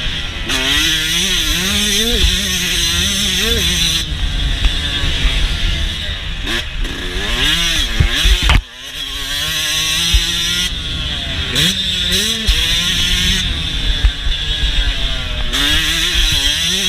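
A 2022 Yamaha YZ125's single-cylinder two-stroke engine revving up and down repeatedly while being ridden around a motocross track. About halfway through the sound drops sharply for a moment, then picks up again.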